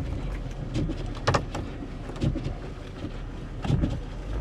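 Van engine running low while the driver rocks it back and forth to get unstuck in deep snow, with a couple of short knocks about a second in and near the end.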